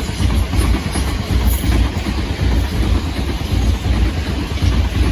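A pair of Class 444 electric multiple units passing through the station, a steady loud rumble of the train's wheels running on the rails.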